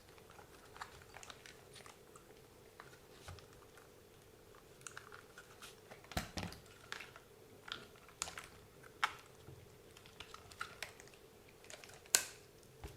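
Small parts and tools being handled while repairing a WLToys 144001 RC buggy by hand: scattered light clicks and taps, with one sharper click near the end. A faint steady hum runs underneath.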